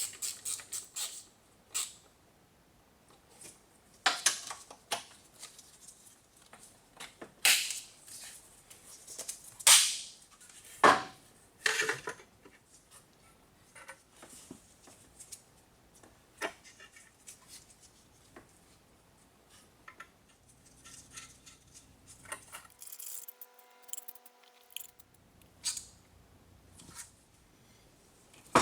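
Irregular clicks, clinks and clanks of hand tools and metal engine parts being handled and set down during engine work, some sharp and loud, with a short faint steady tone about three-quarters of the way through.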